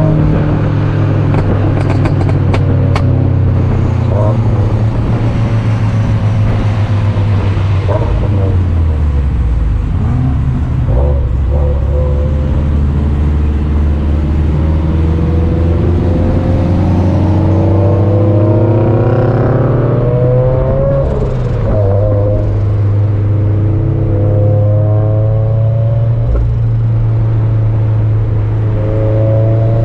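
Turbocharged Subaru FA20 flat-four engine of a straight-piped BRZ/FR-S-type car under way, droning steadily at low revs. The revs drop about eight seconds in, then climb in pulls in the second half and again near the end.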